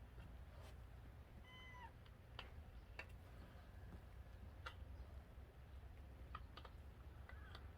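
A cat meows once, short and faint, with a fainter second call near the end and a few faint clicks around it.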